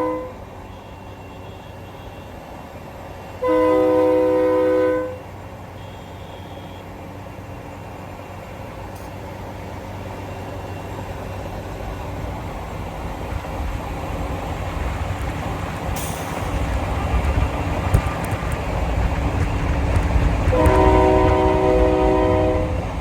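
Multi-chime air horn giving a long chord blast about three and a half seconds in and another near the end, while the low rumble of a heavy vehicle builds as it approaches.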